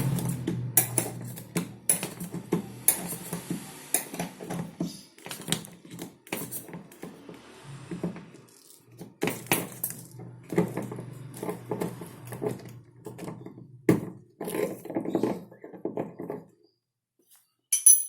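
Irregular light clicks and clattering knocks, as of hard objects being handled and set down, over a low steady hum. The hum and clatter stop about 16 seconds in, and a last sharp click comes near the end.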